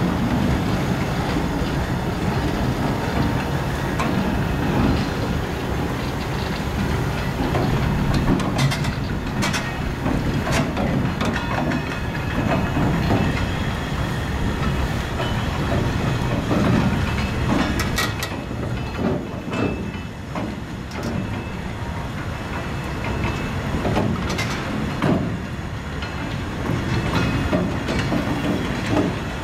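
Freight train of cement silo hopper wagons rolling past, wheels clattering over the rail joints in a steady rumble, with now and then a short, sharp high-pitched click or squeak from the wheels.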